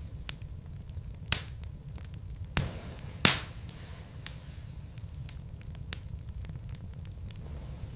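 Logs burning in a fireplace, crackling with scattered sharp pops over a steady low rumble of the flames; the loudest pop comes about three seconds in.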